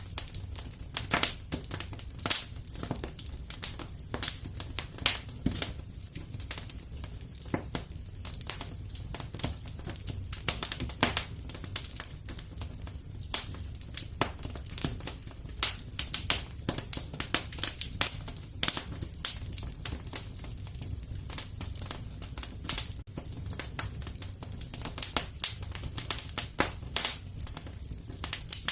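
Wood fire crackling in a fireplace: irregular sharp pops and snaps, several each second, over a steady low rumble of the flames.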